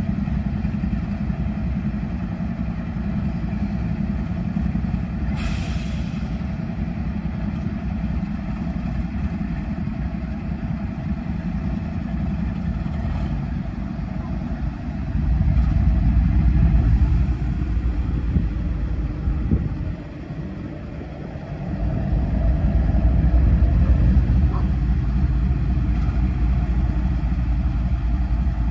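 GE diesel-electric freight locomotives, an ES44DC and a C44-9W, running as the train restarts, a deep low rumble. It grows louder about fifteen seconds in, dips briefly near twenty seconds, then rises again. A short hiss comes about five seconds in.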